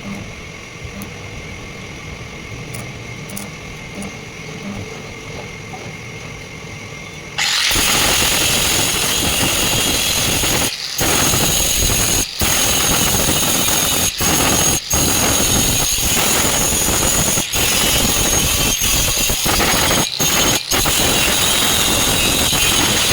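A machine hums steadily, then about seven seconds in a loud, high-pitched grinding squeal of sawmill machinery or a power tool on steel starts and carries on, broken by several brief gaps.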